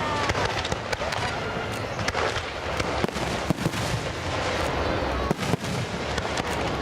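Fireworks going off in quick, irregular succession: many sharp bangs and crackles over a dense, continuous rumble.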